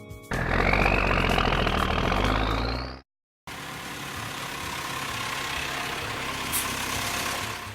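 Vehicle engine sound effect: an engine revs with a rising whine for about three seconds, cuts off briefly, then runs on more quietly and steadily.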